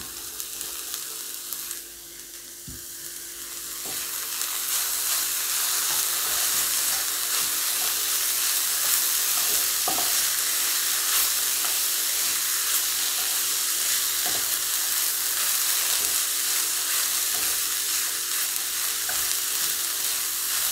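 Shredded cabbage and carrot stir-frying in a pan, stirred and turned with a wooden spatula. The sizzle grows louder over the first few seconds as the cabbage heats, then holds steady, with occasional light taps of the spatula.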